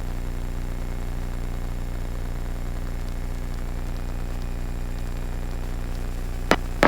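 Robinson R44 helicopter's engine and rotor drone heard from inside the cabin, steady and low. A sharp click sounds near the end.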